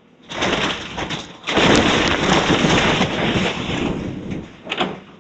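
Demolition debris of a wooden house crunching, splintering and crashing down as it is torn apart: a short crash, then a longer, louder stretch of breaking and falling material, and a brief crack near the end.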